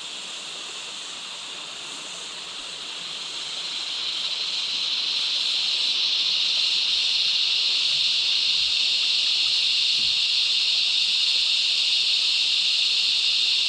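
Cicada chorus: a steady, high-pitched shrill hiss that swells over the first few seconds, then holds level.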